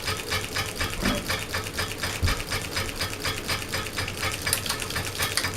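Harbor Breeze Vector Elite ceiling fan running, with a fast, even ticking at about five clicks a second over a steady motor hum.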